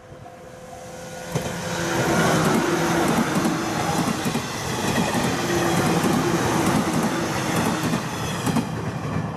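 JR West 115 series electric multiple unit train passing close by: a loud rumble of wheels on rail with a clickety-clack over the rail joints and a steady hum underneath, growing louder over the first two seconds as it approaches.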